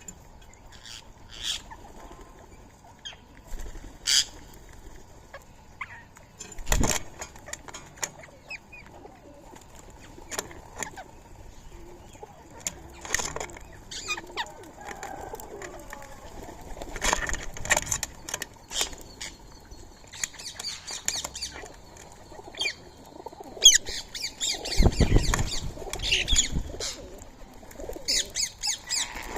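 Rose-ringed parakeets at a feeding spot: wings flapping as birds land and take off, with short chirps and scattered small clicks. There is one sharp thump about seven seconds in and a louder flurry of wingbeats and calls near the end.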